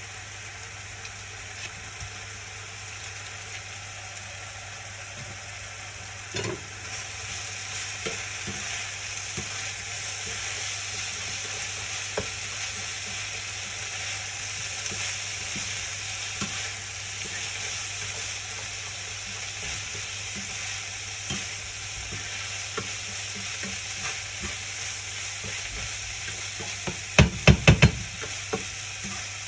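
Food sizzling in a frying pan while it is stirred, with scattered soft knocks of the utensil against the pan and a steady low hum. Near the end comes a quick run of loud knocks.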